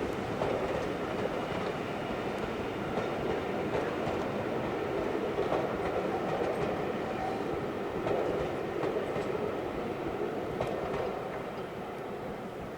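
A train rolling along the track with a steady rumble of wheels on rail and faint clicks over the rail joints, fading away near the end.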